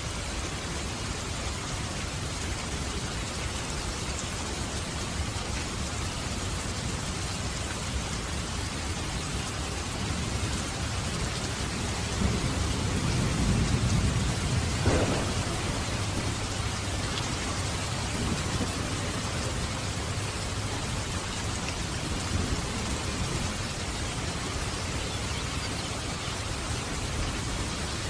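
Steady heavy rain with a roll of thunder: a low rumble swells from about ten seconds in, peaks a few seconds later with a sharp crack, then fades back under the rain.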